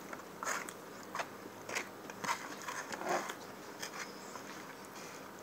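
A person chewing food close to the microphone: a string of short, irregular chewing sounds about half a second to a second apart.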